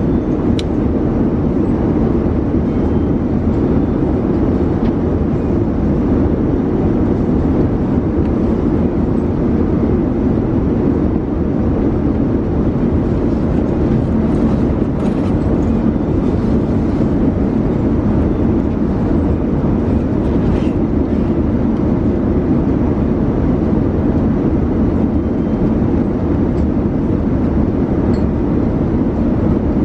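Steady airflow and engine noise inside the cabin of a Boeing 787-9 airliner in flight, with a few faint clicks partway through.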